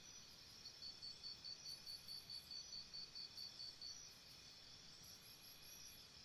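Faint outdoor insect chorus: steady high trilling, joined from about a second in by a quick run of high chirps, about four or five a second, that stops after about four seconds.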